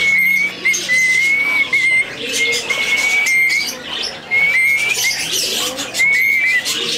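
A pet bird whistling a run of steady high notes, each held for up to about a second with a little hook at its end, over scratchy bird chatter.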